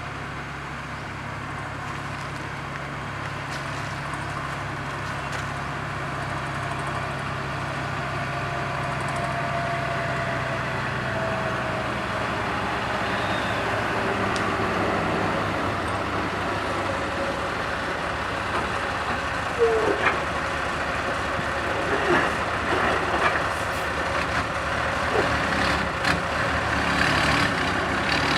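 Heavy diesel road-construction machinery running steadily and growing gradually louder, as on asphalt paving with road rollers. In the second half there are a few short sharp sounds over the engine hum.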